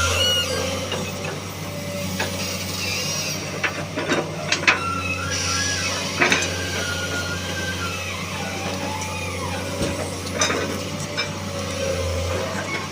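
Excavator engine running steadily while loading pallet wood, with scattered sharp knocks and clatters of wood.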